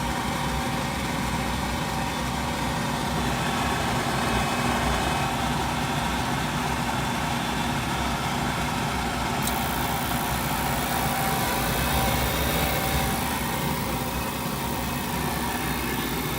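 Goodman gas package unit running on a test of its heat, a steady motor hum with a few steady tones. About nine seconds in there is a click, after which a higher hiss joins; the burners are not lighting and raw gas is escaping.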